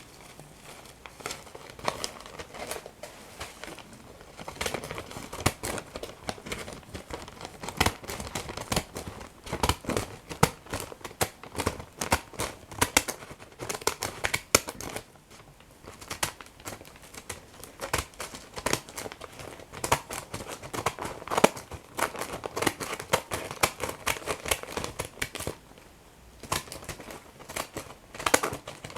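Paper being crumpled and torn close to the microphone: a dense run of crackles and rips, easing off briefly about halfway through and again near the end.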